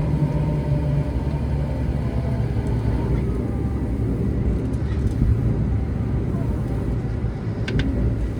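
Odakyu 4000 series electric train running between stations in a subway tunnel, heard from inside the car: a steady low rumble of wheels on rails. Faint whining motor tones fade out over the first few seconds, and a brief high squeak comes near the end.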